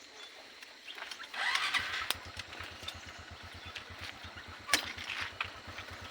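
A small engine starting about a second and a half in, then running at idle with a rapid, even low putter; a few sharp clicks over it.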